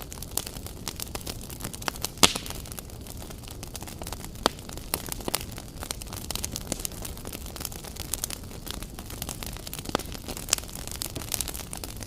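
Wood campfire burning: a steady low hiss with frequent irregular crackles and pops of the burning logs, one sharp pop about two seconds in the loudest.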